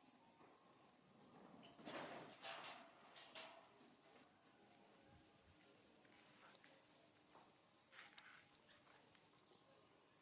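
Baby monkey giving a long run of short, very high-pitched squeaking cries, about two or three a second, each rising then levelling off. A few soft rustles come in between.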